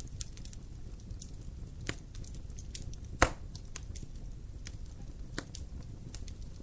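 Fire in a fireplace crackling over a steady low rumble, with scattered small pops and one loud pop about three seconds in.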